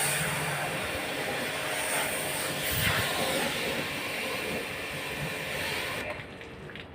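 High-pressure water jet spraying in a steady hiss, as when washing an air conditioner's coils, cutting off suddenly about six seconds in.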